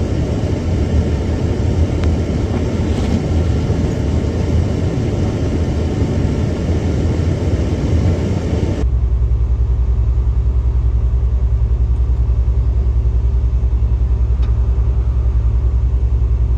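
Low vehicle rumble. About nine seconds in it cuts abruptly to a steadier, evenly pulsing hum with a faint steady tone.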